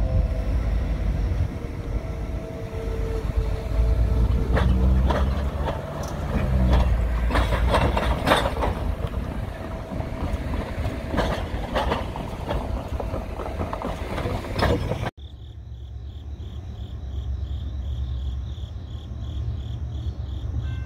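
A train passing on a railroad mainline: steady low rumble of wheels on rail, with many sharp clicks and knocks through the middle of the passage. About three-quarters of the way through it cuts off abruptly to a quieter, steady low hum with a faint pulsing high buzz.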